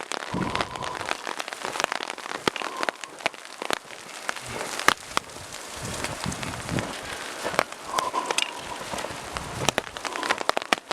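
Rain falling, with many close drops ticking irregularly, and a few low rumbles of wind.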